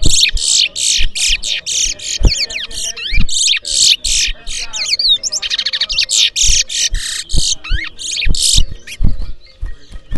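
Towa-towa seed finch singing a long, fast song of rapid buzzy and whistled notes, most of it within the first nine seconds. In a bird race each such song is counted. Occasional low knocks sound beneath it.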